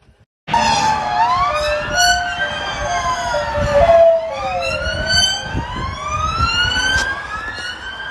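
Emergency vehicle sirens, more than one at once, starting abruptly about half a second in and wailing with slow rising and falling pitch over a low traffic rumble.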